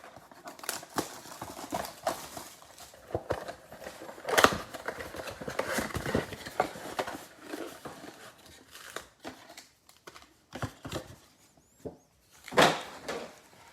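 Plastic shrink wrap and packaging crinkling and tearing as a trading card box is opened, with irregular rustles and clicks, louder bursts about four seconds in and near the end.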